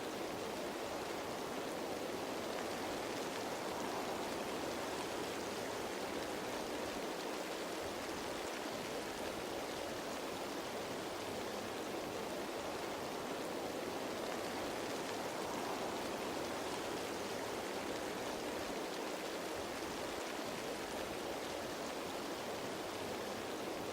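Steady rain falling on leaves, an even wash of patter with no separate drops or other sounds standing out.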